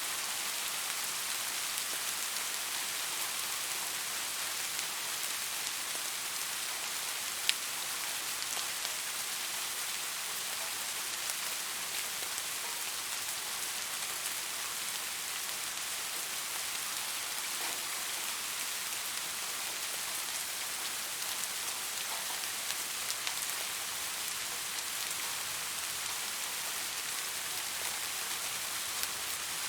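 Steady rain falling, an even hiss of drops on a surface with scattered individual drip clicks, one sharper drip about seven seconds in.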